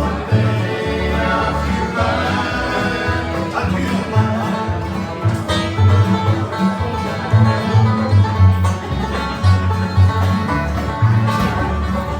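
Bluegrass band playing an instrumental break: banjo and guitar over a walking bass line, with no singing.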